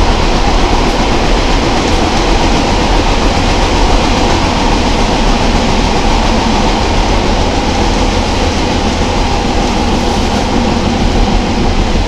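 Class 143 Pacer diesel railbus under way, heard from on board: a steady running noise of the underfloor diesel engine and the wheels on the rails.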